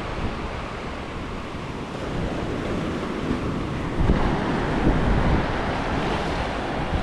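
Calm ocean surf washing onto the beach at low tide, swelling about four seconds in, with wind buffeting the microphone.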